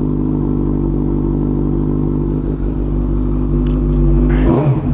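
Suzuki GSX-R1000's inline-four engine idling steadily through a really loud exhaust, then a quick throttle blip near the end.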